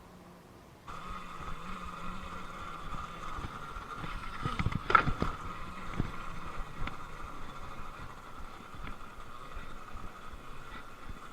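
Electric dirt bike being ridden, its motor and drivetrain giving a steady whine over a low hum. There is a sharp knock and rattle about five seconds in.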